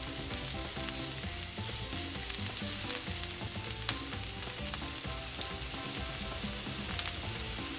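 Sliced onions and crushed garlic sautéing in hot oil in a nonstick wok: a steady sizzle with scattered small crackles. A wooden spatula stirs them briefly at the start.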